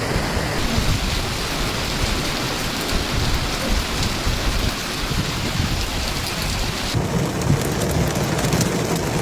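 Heavy rain pouring down hard, with a deep low rumble under it. The sound changes about seven seconds in, as at a cut to another clip of the storm.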